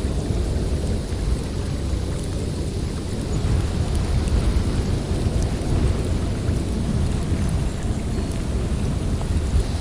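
Blizzard wind, a dense low rumble that swells and eases in gusts.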